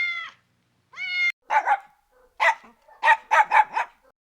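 Pet animals calling: two drawn-out high cries, the second cut off abruptly, then a run of about eight short, sharp barks that come faster near the end.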